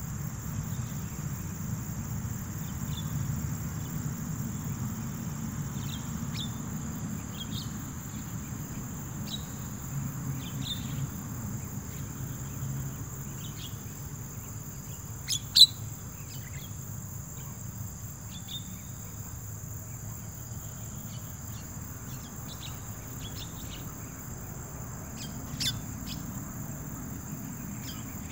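Scattered short bird chirps, with a sharp louder one about halfway through and another near the end, over a steady high-pitched insect drone and a low background rumble.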